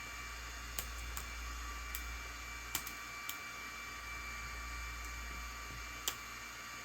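Scattered small clicks and taps of hand tools on a smartphone being taken apart, about six in all, over a steady hiss.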